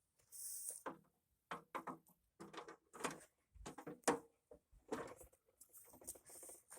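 Irregular light knocks, clunks and scrapes of a wood chipper's discharge chute being handled and fitted into place.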